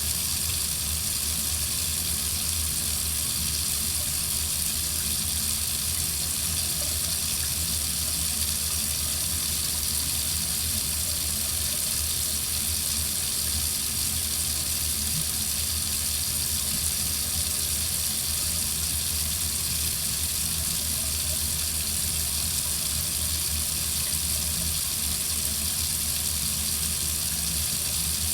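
Water running steadily from a tap into a sink, an even hiss with no change.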